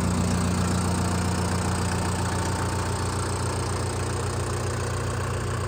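Shibaura SD3234 compact tractor's four-cylinder diesel engine running steadily at idle.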